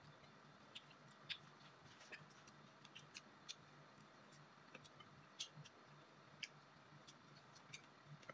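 Faint, irregular crunches and mouth clicks of people chewing crispy fried chicken, over a faint steady low hum.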